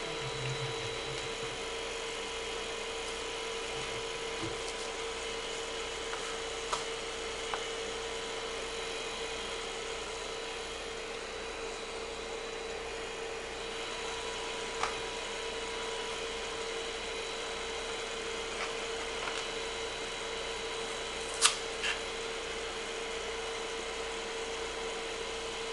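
Creality CR-10 3D printer's cooling fans running with a steady hum after a finished print, with a few sharp clicks and knocks, the loudest about 21 seconds in, as the print and the flexible magnetic build plate are handled.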